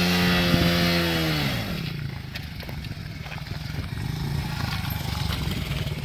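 Dirt bike engine held at high revs during a burnout. The revs drop away under two seconds in, and it runs on lower.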